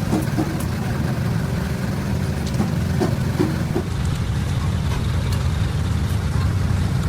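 A large engine idling steadily with an even low rumble, with brief voices in the first few seconds.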